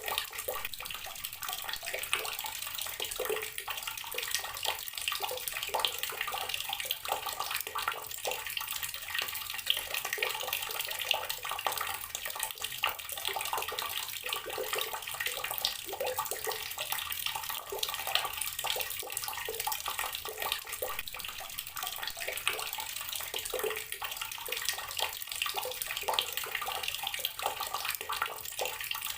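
Water running steadily from an outdoor tap and splashing below, an even continuous spatter.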